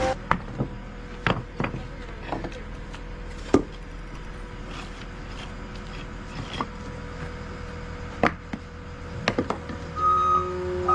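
Scattered sharp knocks and clunks of demolition work, about eight in all, over the steady hum of an idling machine. Near the end a backup alarm starts beeping.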